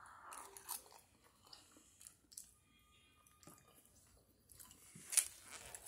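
A person chewing a mouthful of cheese grits and scrambled eggs, with faint soft mouth sounds and one sharper click about five seconds in.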